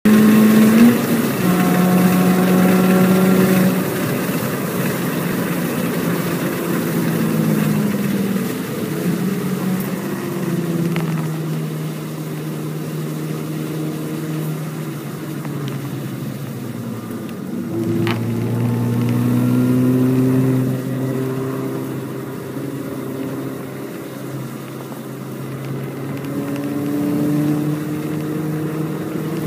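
MINI Cooper S (R53) supercharged four-cylinder engine under hard driving on track, its pitch climbing through the revs and dropping back again and again as it shifts, lifts and brakes.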